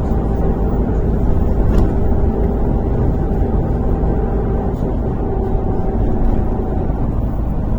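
MAZ-103 city bus running along the route, heard from inside the passenger cabin: a steady low engine and road rumble with a faint steady whine over it.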